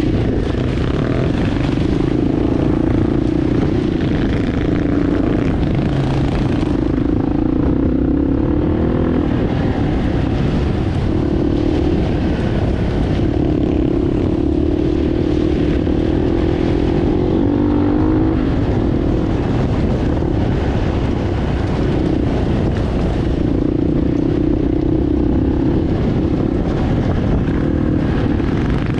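Motorbike engine running while riding, its note holding steady with a few brief drops and recoveries.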